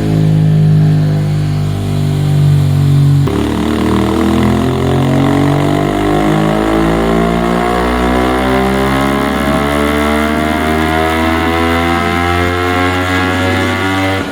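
Aprilia RS660's 659 cc parallel-twin engine breathing through a full Akrapovic exhaust on a dyno. It runs at a steady speed, then about three seconds in it begins a long, steady climb in revs: a full-throttle dyno pull.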